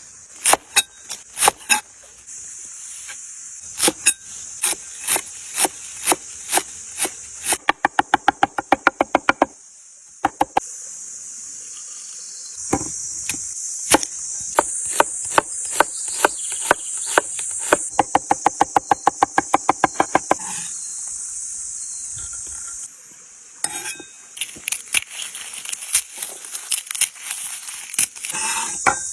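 A knife chopping on a wooden cutting board: scattered single knocks, and twice a fast, even run of about seven or eight chops a second lasting a couple of seconds. Behind it, an insect chorus shrills steadily.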